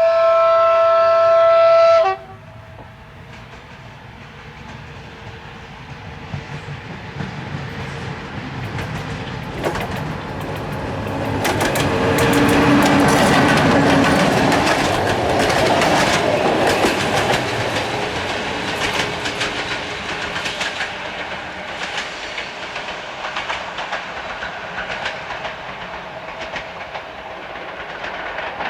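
CFR EA-class electric locomotive sounding its horn in one two-second blast, then the locomotive and its passenger train passing with wheels clacking over jointed rail, loudest around halfway and then fading.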